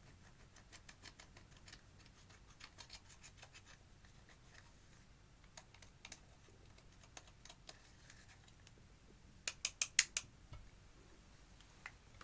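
Clear slime with eyeshadow mixed in, being worked by hand and giving small sharp clicks and pops: light and scattered at first, then a quick run of about six louder pops a little before ten seconds in.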